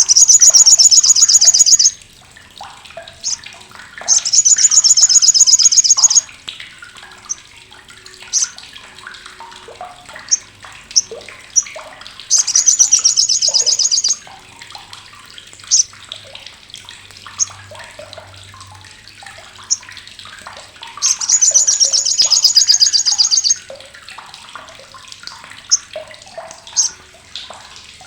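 Olive-backed sunbird (sogok ontong, sriganti) giving its harsh, sharp chattering call, the 'crecetan' used as a master recording for training songbirds. Four loud rattling runs of about two seconds each, with single short high chips in between.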